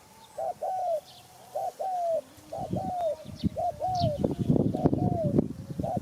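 Spotted dove cooing: repeated pairs of notes, a short coo followed by a longer one that falls in pitch, about once a second. Other small birds chirp faintly, and from about halfway through a low rustling, knocking noise runs under the calls.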